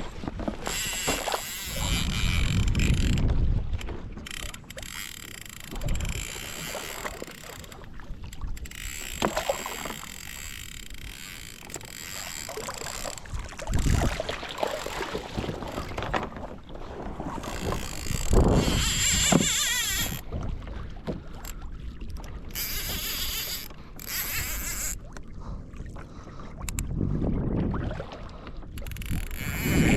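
Water splashing and sloshing against a kayak hull, with uneven gusts of wind on the microphone.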